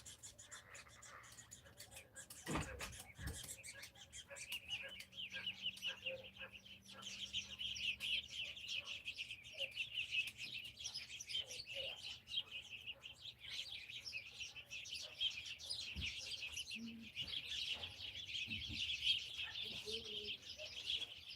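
Many small birds chirping rapidly in a dense, continuous chorus that swells about four seconds in. A dull knock sounds near the start.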